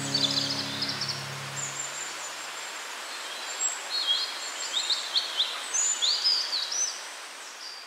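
Small birds chirping in short, quick rising notes over a steady outdoor hiss, with the chirps thickest in the second half; the last notes of soft music fade out in the first two seconds or so.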